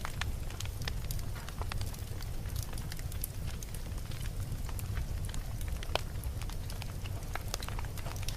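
Campfire burning with a steady low rumble and frequent crackles and snaps of burning wood, one sharper pop about six seconds in.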